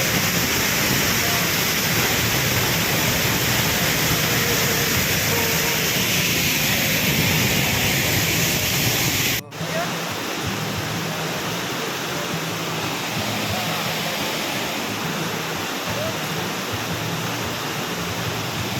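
Waterfall: a steady, dense rush of falling water. About halfway through the sound drops out for a moment, then carries on slightly quieter.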